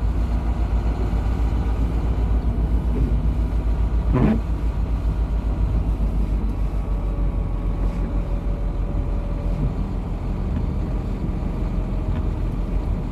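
A GAZon Next truck's diesel engine, heard from inside the cab, running at low speed with a steady low throb as the truck creeps along in slow traffic. A brief sweeping sound cuts through about four seconds in.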